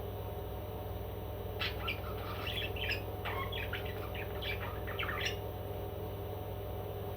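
A parrot giving a quick run of short squawks and chirps lasting about four seconds, starting a second and a half in, over a steady low hum.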